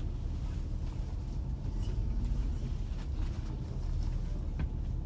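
Low, steady rumble of a train rolling slowly, heard from inside the passenger carriage, with a couple of faint clicks.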